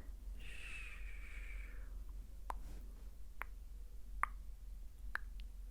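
Close-up ASMR mouth sounds: four sharp, wet clicks and pops, about one a second, after a soft swish of about a second and a half near the start.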